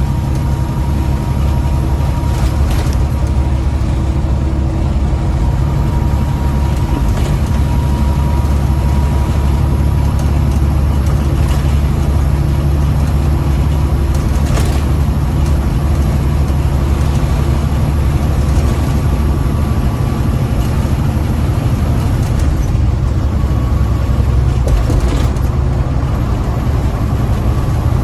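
A big-rig truck's diesel engine runs steadily under way, heard from inside the cab as a constant low drone mixed with road noise.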